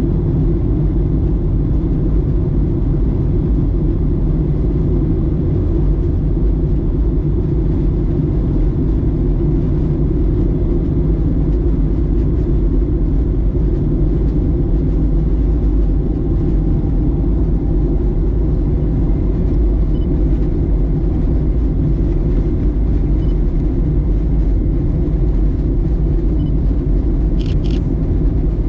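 Steady cabin rumble inside a Boeing 737-900ER airliner, the even low drone of its engines heard from a seat at the rear of the cabin, with a couple of faint clicks near the end.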